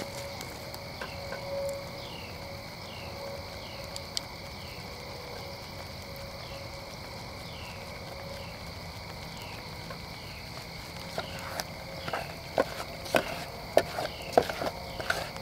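Insects chirping steadily in the woods at a high pitch, with a short falling chirp repeating about every two-thirds of a second. A series of sharp clicks and knocks starts about eleven seconds in.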